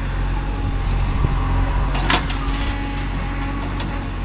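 Diesel engine running steadily at a low even pitch, with a brief sharp high-pitched squeak about two seconds in.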